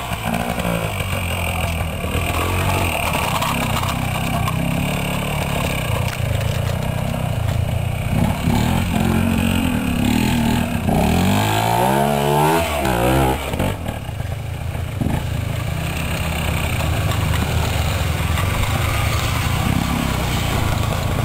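Trial motorcycle engine running at low revs and being blipped as the bike picks its way up a steep, wooded dirt section. Between about eight and thirteen seconds in, the revs rise and fall several times.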